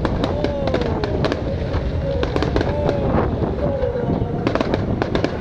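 Fireworks display going off: a rapid, irregular run of sharp bangs and crackles over a continuous low rumble.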